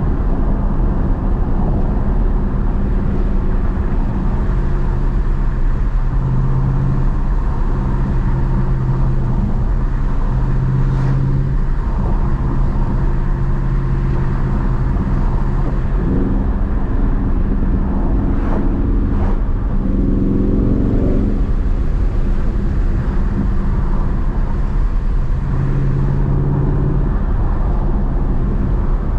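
Dodge Charger Daytona 392's 6.4-litre HEMI V8 running at cruise, a steady drone whose pitch rises a couple of times in the second half as the car picks up speed. A few brief clicks sound in the middle.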